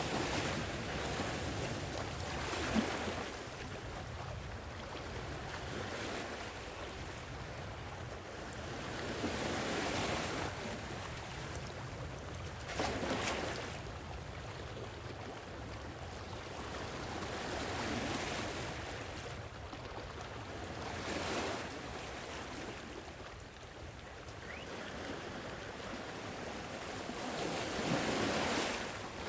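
Sea waves washing onto a shore: a steady low rumble of surf with about six swells that rise and fade every few seconds, the sharpest a little before the middle.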